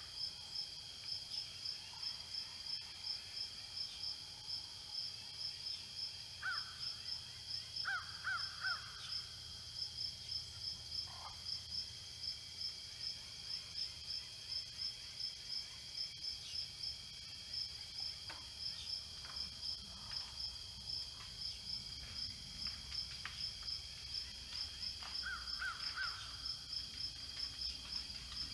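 Insects chirping steadily, a fast even pulse. A bird calls a few times over it, in quick runs of three notes about eight seconds in and again near the end.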